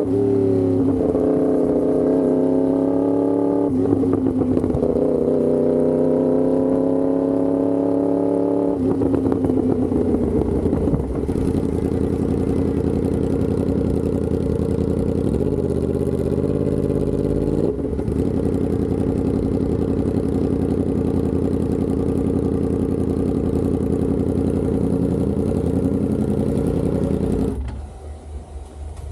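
Yamaha R1M's crossplane inline-four through an SC Project exhaust, revving up and down with its pitch rising and falling for the first several seconds. It then runs steadier at a lower pitch, and drops much quieter near the end.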